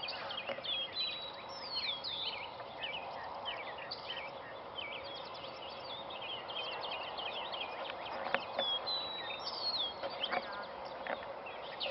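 Birds chirping and whistling, with many short calls and sliding notes, over a steady background hum of outdoor noise. There are a couple of sharp clicks about eight and ten seconds in.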